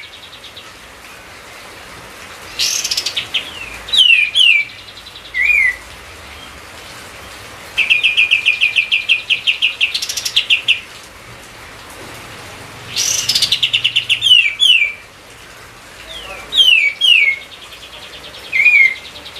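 Kapas tembak bulbul singing close to the microphone, in repeated loud phrases of quick downward-sweeping whistled notes. Two longer rapid trills of about eight notes a second come about eight and thirteen seconds in.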